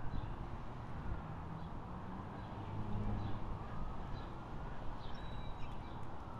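Outdoor ambience: a low, steady rumble with faint, short bird chirps repeating every second or so.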